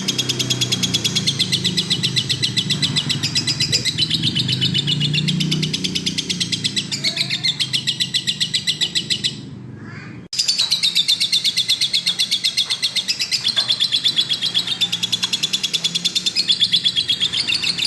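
Lovebird singing in long, rapid trills of high-pitched chirps. The chirping breaks off for about a second just past the middle and resumes abruptly after a click.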